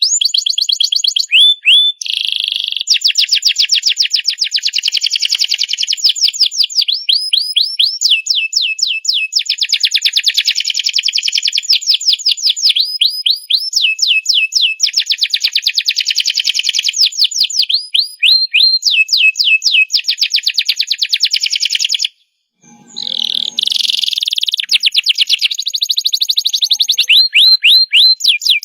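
Domestic canary singing a long, unbroken song of rapid trills and rolls: fast runs of repeated notes that switch to a new phrase every second or two. The song breaks off for about half a second roughly three quarters of the way through, then goes on.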